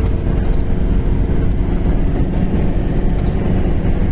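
Motor vehicle driving: a steady engine drone over heavy low road rumble.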